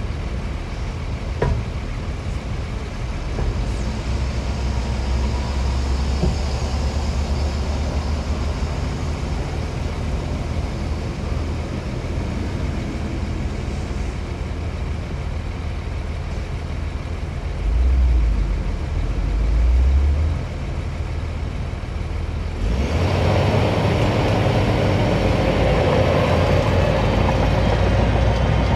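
Diesel engines of heavy earthmoving machinery running with a steady low rumble, swelling twice briefly, then shifting suddenly to a louder, harsher sound about three quarters of the way through.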